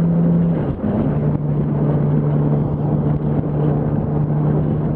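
Yamaha R1 sport bike's engine running steadily at highway speed. Under a second in, the note breaks briefly and then settles a little lower.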